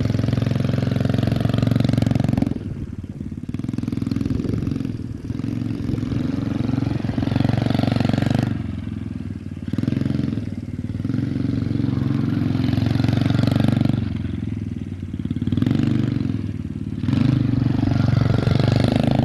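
JMC 60A pit bike engine running while being ridden, the throttle opened and closed repeatedly. The revs drop off five times and pick up again.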